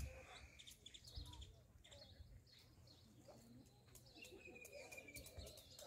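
Near silence: faint outdoor ambience, with a bird's thin, slightly falling whistled call of about a second near the end.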